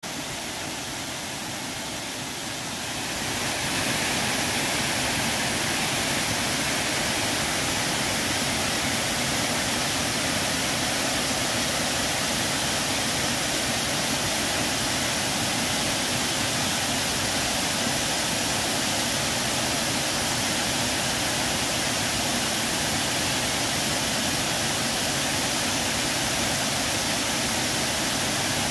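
Waterfall rushing: a steady, dense roar of falling water that fades in over the first few seconds and then holds level.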